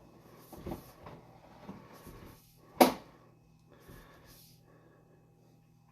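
Scattered handling knocks and clicks, one sharp loud click about three seconds in, over a steady low electrical hum.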